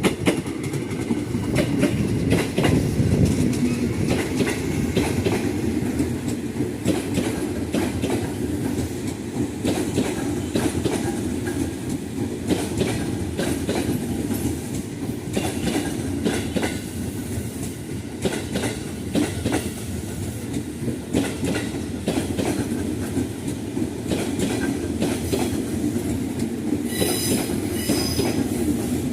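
A long train passing close by: a steady rumble with a continuous run of wheel clacks over the rail joints. Short high-pitched sounds come in near the end.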